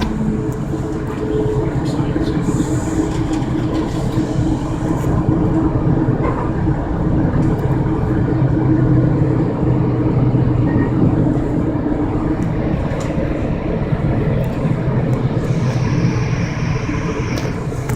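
Steady rumble of a passenger train in motion, heard from inside the coach: wheels running on the rails with a constant low hum.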